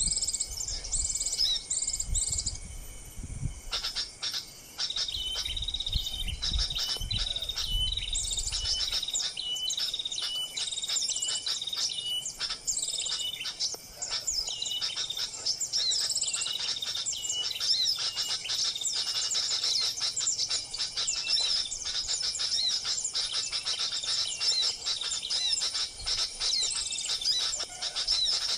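Small birds, sunbirds and flowerpeckers, chirping and twittering rapidly in high, thin calls, with a string of short repeated notes from about five to fourteen seconds in. Dull low rumbles come and go in the first nine seconds.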